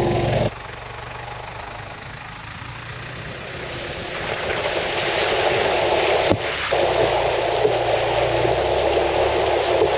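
Four-wheel drive on the move: steady road and wind noise that grows louder from about four seconds in, with a single click a little after six seconds.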